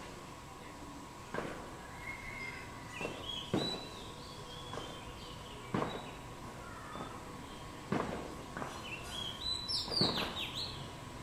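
Small birds chirping, with twittering phrases and a short, sharp note about every two seconds. A thin, steady whine runs underneath.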